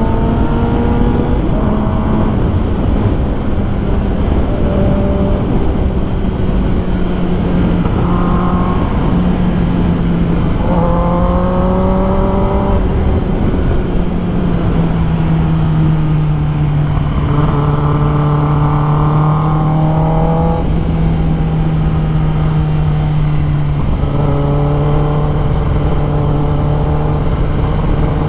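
2021 Kawasaki ZX10R's inline-four engine running at a steady cruise under heavy wind rush. The engine note drops slightly about halfway through, and a higher, rising engine note swells and fades a few times.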